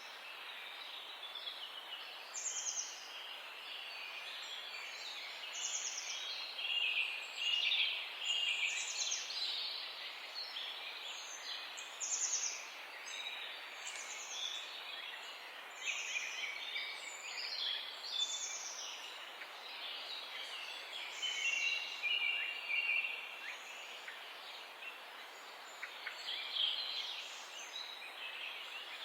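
Several wild birds chirping and singing at once in a morning chorus. A high, quick trilled note repeats about every one to two seconds over a busier layer of lower chirps, with a faint steady background hiss.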